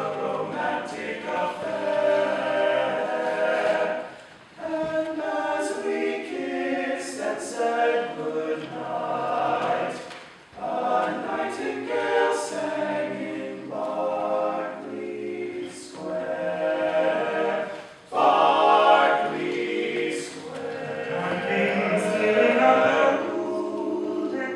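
A cappella vocal group singing a slow ballad in close harmony, held chords in long phrases with short breaks between them about every six seconds.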